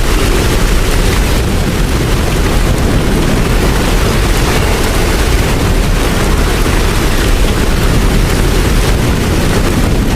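Steady rain, an even noise with a deep low rumble underneath.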